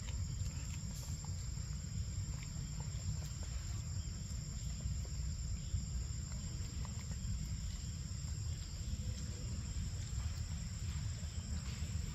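Insects, crickets or cicadas, droning in a steady high-pitched buzz, over a constant low rumble, with a few faint ticks here and there.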